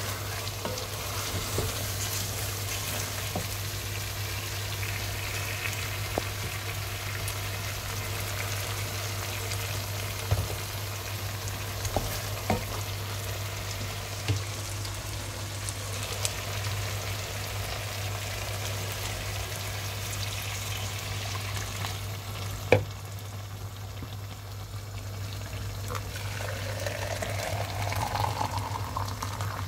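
Potatoes and chickpeas sizzling as they fry in an enamelled cast-iron pot, stirred with a wooden spoon that now and then knocks against the pot, over a steady low hum. Near the end, water runs into a plastic jug, its pitch rising as the jug fills.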